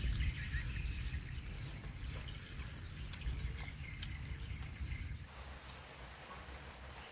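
Outdoor ambience: a low rumble with faint bird chirps above it; the rumble eases about five seconds in.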